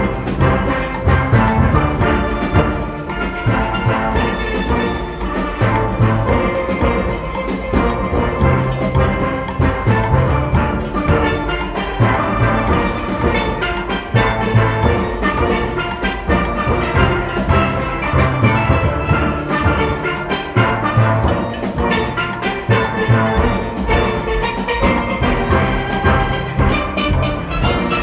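Steel orchestra playing: massed steelpans with a drum and percussion section keeping a fast, steady beat.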